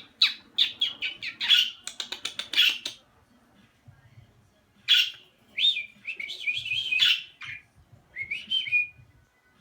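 Pet budgerigars chirping and chattering: a quick run of sharp chirps for the first three seconds, a short pause, then a loud call and a stretch of warbling chatter.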